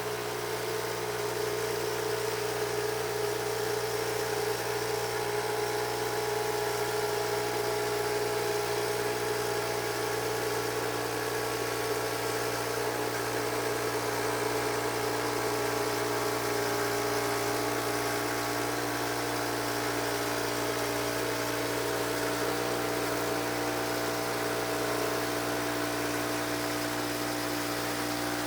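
Band sawmill's engine running at a steady speed, a constant hum.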